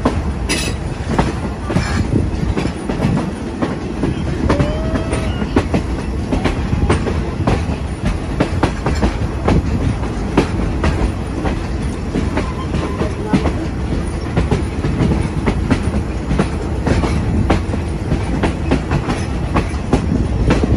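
Passenger train running, a steady rumble with frequent irregular clacks of the wheels over the rail joints, heard from an open carriage window.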